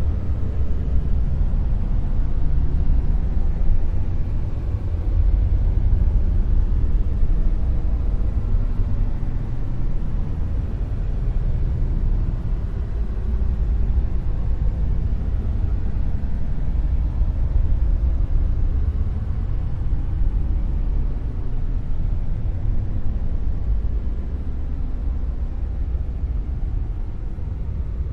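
Dark noise: a steady, deep rumbling hiss with its weight in the bass and little treble, unchanging throughout.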